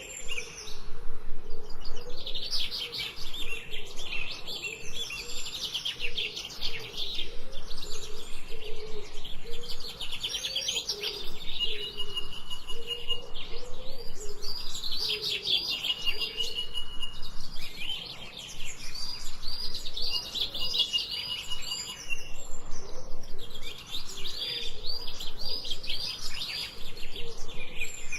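Songbirds singing in a steady chorus: quick runs of high chirps in phrases a few seconds long, twice broken by a held high trill, over fainter lower calls.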